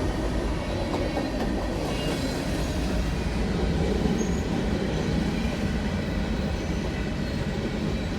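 Coal train's hopper cars rolling past at a grade crossing: a steady, heavy rumble of steel wheels on the rails.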